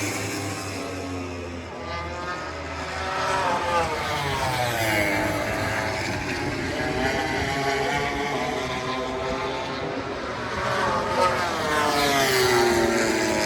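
MotoGP race bikes' engines passing on track, one after another, with engine pitch sweeping up under acceleration and dropping as each bike goes by.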